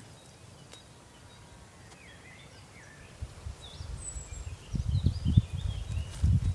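Birds chirping, a scatter of short high calls starting about two seconds in, over an uneven low rumble that swells into louder bumps in the second half.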